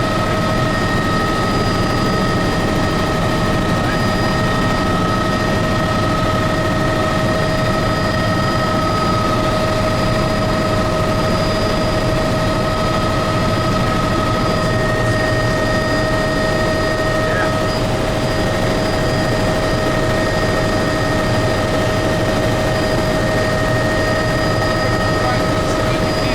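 Helicopter in flight, heard from inside the cabin: a steady rotor and turbine drone with several constant high whining tones over it. One of the whines drops out about two-thirds of the way through.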